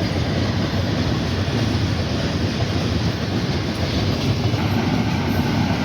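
A train passing a level crossing: a steady rumble and clatter of wheels on the rails.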